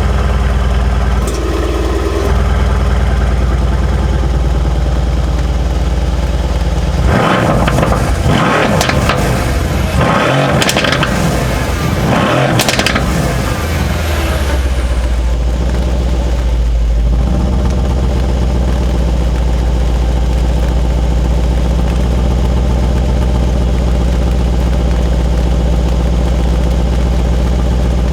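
Mercedes-AMG C63 engine idling after a cold start, then revved in a run of quick blips that rise and fall in pitch for about seven seconds, before settling back to a steady idle.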